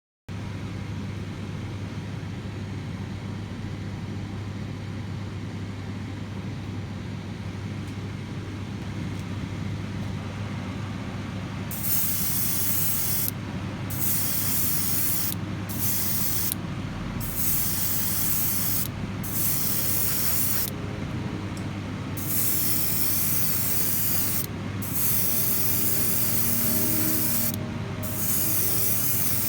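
Paint being sprayed onto a die-cast car body: a steady low hum, then from about twelve seconds in, about eight bursts of hiss, each lasting one to two and a half seconds, with short gaps between.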